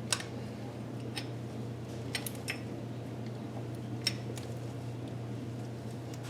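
Hand tools clinking lightly against metal: about six sharp, irregularly spaced clicks, the loudest right at the start, over a steady low hum.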